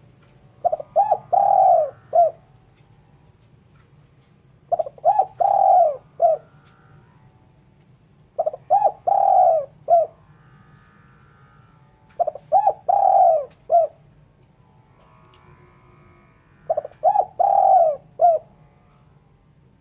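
Spotted dove cooing: a repeated four-note phrase of two short coos, a longer drawn-out coo, then a short one, given five times about every four seconds.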